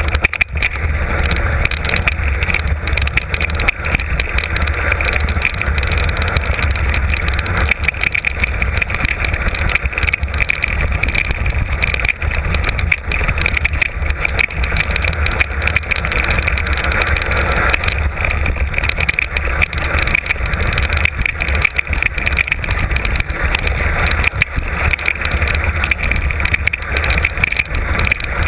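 Mountain bike descending a rough trail at speed: a steady rumble of wind on the microphone under a continuous hiss of tyres on dirt, with frequent small knocks and rattles as the bike runs over rocks and bumps.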